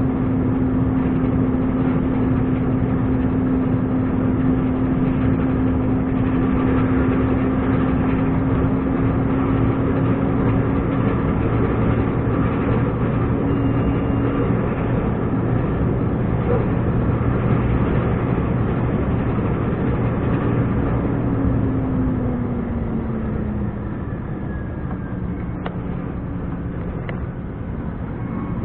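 Scania R420 truck's straight-six diesel engine running steadily under way, a constant drone. About 21 seconds in, the engine note falls in pitch and gets quieter.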